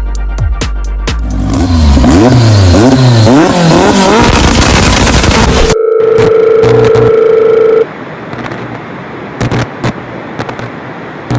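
Car engine revving hard several times, its pitch rising and falling with each rev. It is followed by a steady beep lasting about two seconds.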